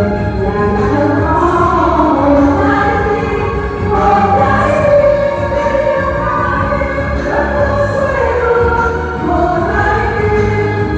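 A choir singing a song with held, sustained notes over steady instrumental accompaniment.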